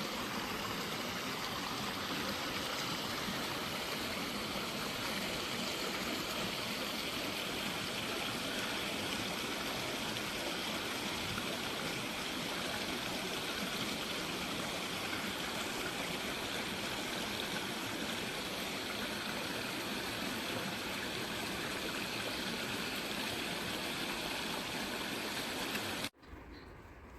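Rushing mountain stream: a steady, even rush of water that cuts off suddenly near the end.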